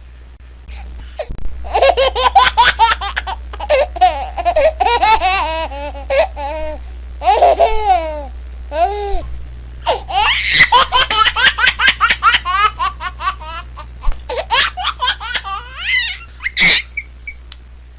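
A baby laughing in several runs of quick, high-pitched laughter with short breaks between them, over a low steady hum.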